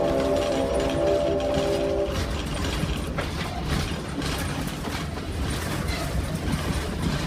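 A train's horn sounds a chord of several steady notes that stops about two seconds in. After that comes the rumble of the moving train, with wheels clicking and cars rattling on the rails.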